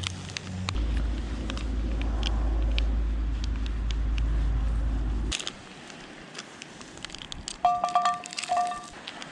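Low wind rumble on the microphone for about five seconds, which cuts off suddenly. A campfire then crackles with sharp scattered pops. Near the end come several short two-tone beeps.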